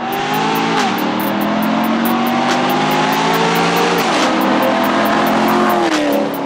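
Cammed C7 Corvette V8 accelerating hard through the gears: the engine note climbs steadily and drops sharply at each upshift, about a second in, about four seconds in and again near the end.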